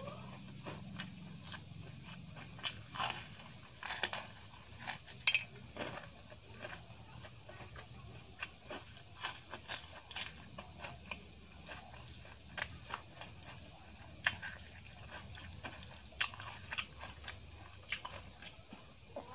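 Close-miked eating sounds: a person biting and chewing a fried fritter (mirchi pakoda), with irregular crisp crunches several times a second, the loudest about five seconds in.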